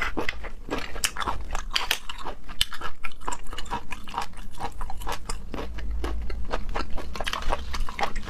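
Close-up mouth sounds of chewing raw shellfish: irregular wet clicks and crunches, with grit of sand left in the shellfish crunching between the teeth, which the eater remarks on.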